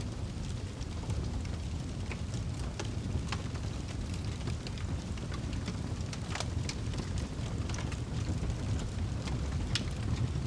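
Fire in a fireplace burning with a steady low rumble and scattered sharp crackles and pops, the loudest about six seconds in and again near the end.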